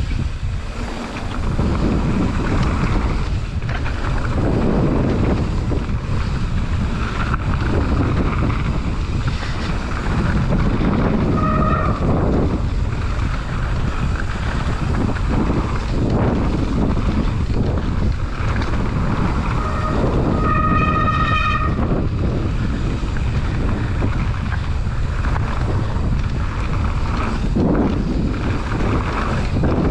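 Wind rushing over the microphone and a mountain bike's tyres and frame rumbling and rattling over a rough trail at speed. A brief high squeal comes twice, a short one about twelve seconds in and a longer one about twenty-one seconds in.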